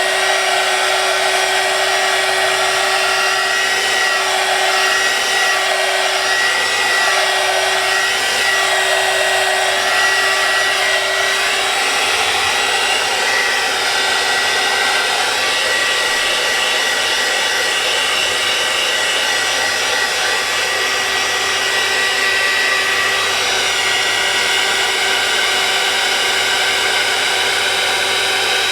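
Handheld heat tool blowing hot air steadily to dry wet watercolor paint, a rush of air with a steady high whine from its fan; a lower hum in it drops away about halfway through.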